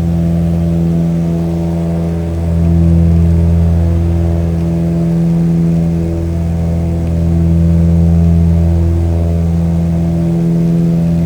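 Airplane engines droning steadily, a loud low hum that slowly swells and fades every few seconds.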